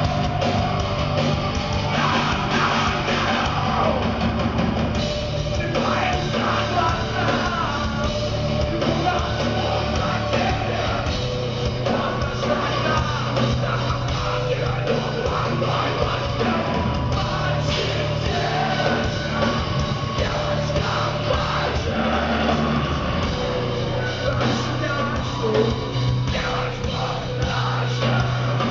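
Rock band playing live and loud, with heavy guitars and drums in a dense, continuous passage.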